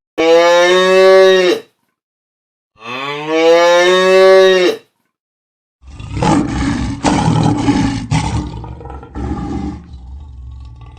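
A cow mooing twice, two long calls with a short gap between. About six seconds in, a rough, noisy animal roar begins and slowly fades.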